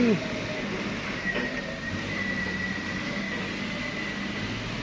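Diesel truck engine running steadily at low revs, with a thin high whine held from about a second in until near the end.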